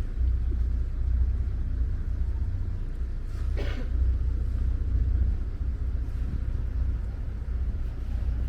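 Steady low outdoor rumble, with one brief higher sound about three and a half seconds in.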